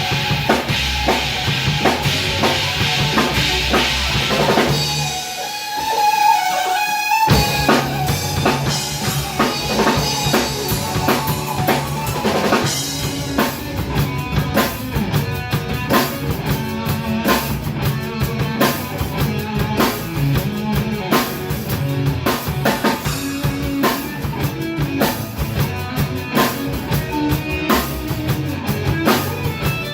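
Progressive-rock instrumental played by a full band, with a busy drum kit, bass and keyboards. About five seconds in the drums and bass drop out briefly, leaving a high keyboard line. The full band crashes back in about two seconds later.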